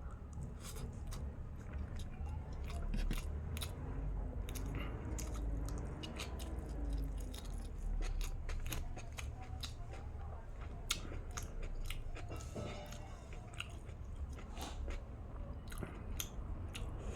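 A person chewing and crunching mouthfuls of chicken biryani, with many irregular sharp crunches and clicks over a steady low rumble.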